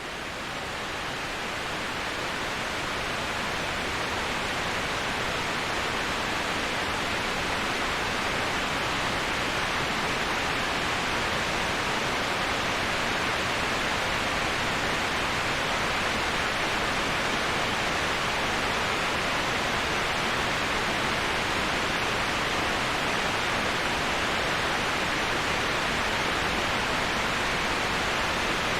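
Waterfall white noise: a steady, even rush of falling water, fading up from silence at the very start and then holding level.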